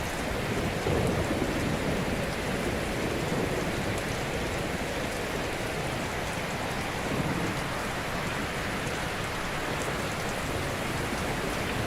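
Ocean waves breaking gently on a shore: a continuous wash of surf, swelling slightly about a second in and again about seven seconds in.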